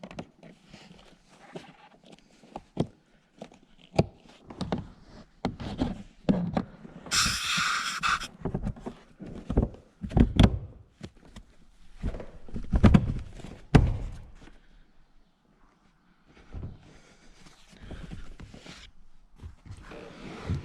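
Irregular knocks and clunks from hands fitting parts and trim back into a car interior, with a short hiss about a third of the way in.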